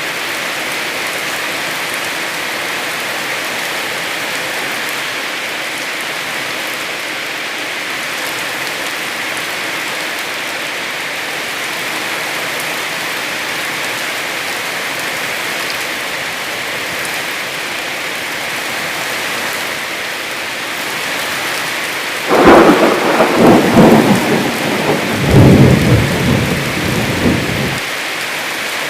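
Heavy rain falling steadily. About three-quarters of the way in, a loud rumble of thunder comes in two surges for about five seconds, then cuts off abruptly.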